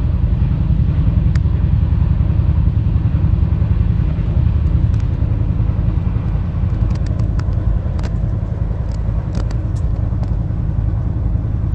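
A steady low rumble, with a few faint ticks in the second half.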